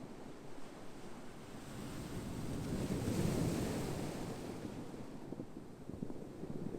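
Ocean surf: a wave swells and breaks about three seconds in, then washes back and fades.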